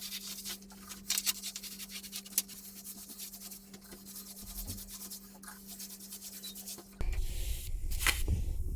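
Repeated scraping, rubbing strokes of a brush or abrasive on a hard surface, over a faint steady hum. About seven seconds in, the sound changes abruptly to a louder low rumbling with another scrape.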